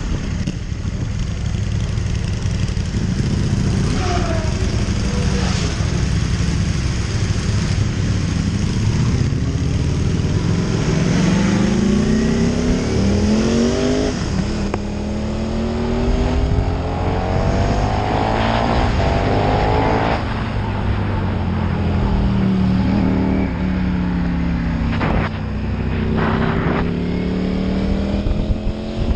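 KTM 1290 Super Duke R's V-twin engine running hard on track: its pitch climbs as it accelerates through the gears and drops sharply at each upshift, about halfway through and again about two-thirds of the way in. Near the end the pitch falls as the bike slows.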